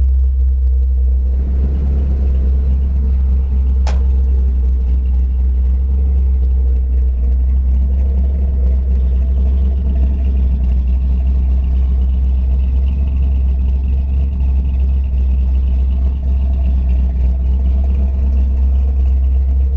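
Old truck's engine running steadily with a deep, even rumble, on its newly reinstalled electronic ignition. A single sharp click comes about four seconds in.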